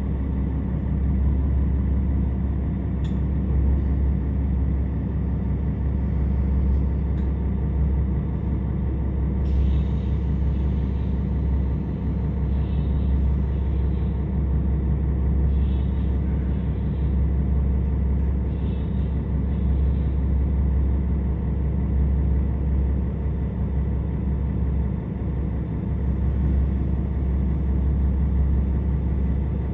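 Inside a KiHa 47 diesel railcar, the steady low rumble of its underfloor diesel engine as the train draws into and stands at a station.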